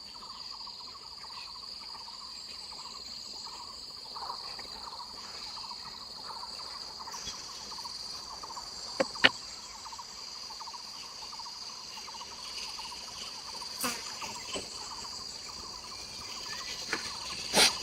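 Insects calling steadily: a high, even drone with a lower, fast pulsing trill under it. A few sharp knocks break through, a pair about halfway and a louder one near the end.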